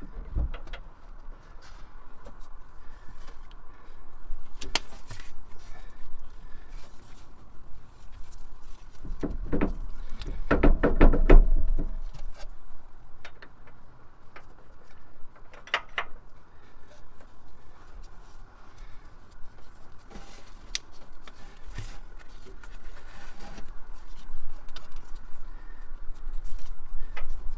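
Hand tools and metal parts being handled during work on a vehicle: scattered clicks and knocks, with a louder run of knocks about ten seconds in.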